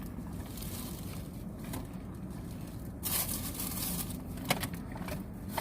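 Paper food wrapping and bags rustling and crackling as a sandwich is handled, loudest about three seconds in, over a steady low hum.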